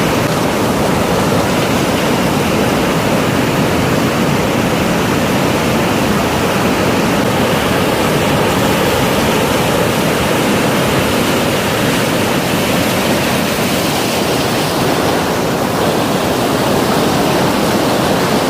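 Ocean surf: a steady, loud rush of big waves breaking on the shore, with no single crash standing out.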